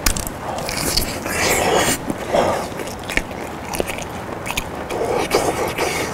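Close-miked mouth sounds of a man biting into and chewing a piece of boiled potato, with many small mouth clicks.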